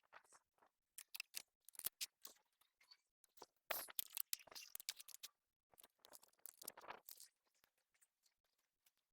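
Faint, intermittent rustling and crunching in short bursts with scattered clicks, as of hands working soil and plants while planting.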